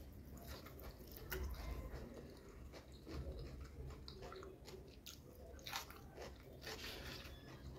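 Close-miked chewing of a mouthful of chicken biryani, with irregular wet mouth clicks and small crunches.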